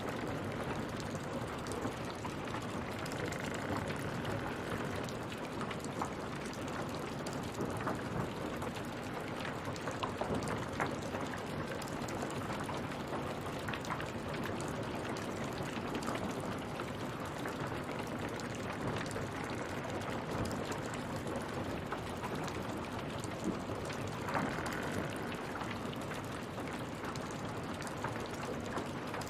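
Steady rain falling, with many separate drop hits.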